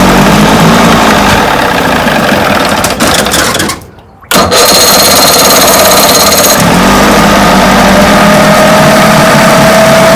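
1980 Chrysler 45 hp two-stroke outboard motor running loudly and roughly at fast idle, just after starting. The sound cuts out for about half a second around four seconds in, then resumes.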